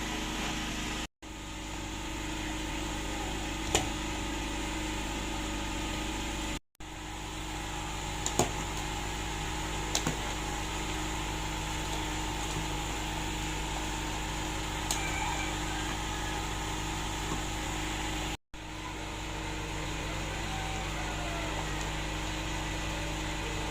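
A steady hum and hiss, cut off abruptly three times for a moment, with a few faint clicks.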